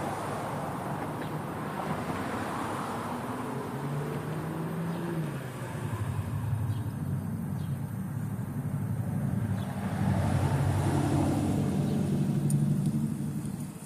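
Car engine running, its low hum shifting in pitch and growing louder over the last few seconds before cutting off.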